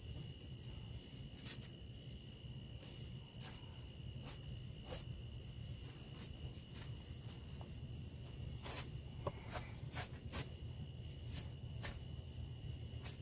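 Steady high-pitched insect chorus, with a dozen or so scattered soft clicks and scrapes, more of them in the second half, as the hide is worked with a small skinning knife.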